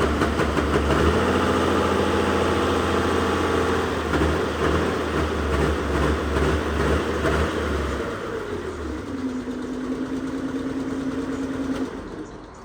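A motor running with a steady low hum. A tone slides down in pitch about two-thirds of the way through, holds, then the sound cuts off near the end.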